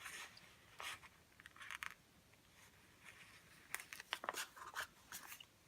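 Paper planner stickers being peeled from their sheet and handled: a faint run of short, scratchy paper rustles, busiest near the end.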